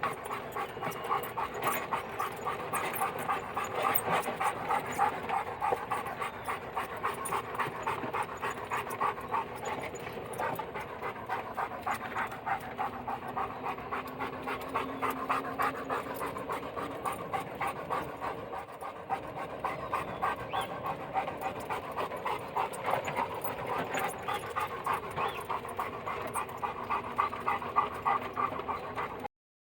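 Dog panting hard and rhythmically, hot and winded from running during exercise in humid heat; the sound cuts off abruptly near the end.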